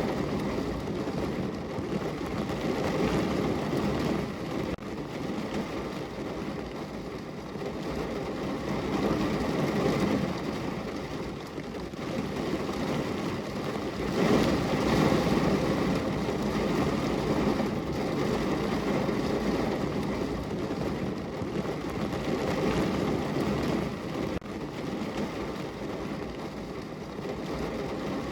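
Heavy rain drumming on a car's roof and body, heard from inside the car, a dense steady patter that swells and eases in waves.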